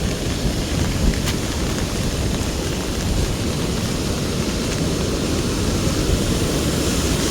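Strong wind gusting on the microphone amid heavy rain, a steady dense rush with no pause.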